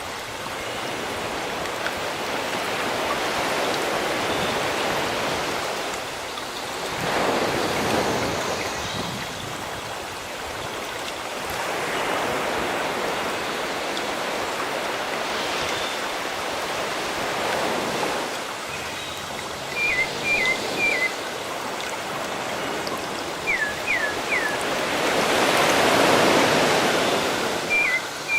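Sea waves washing ashore, surging and falling back every few seconds. Near the end a bird calls in short, falling chirps.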